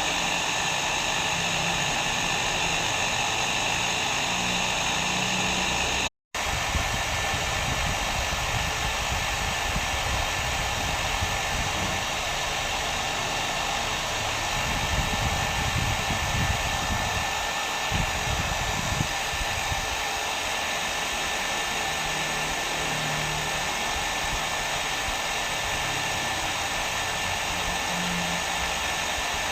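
Handheld hair dryer blowing continuously, a steady rush of air and motor noise. About six seconds in, the sound drops out completely for a split second, then resumes with slightly less hiss and more low rumble.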